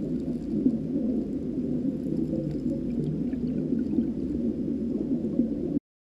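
Flowing stream water heard underwater in a salmon spawning stream: a steady, muffled rush and gurgle that cuts off suddenly near the end.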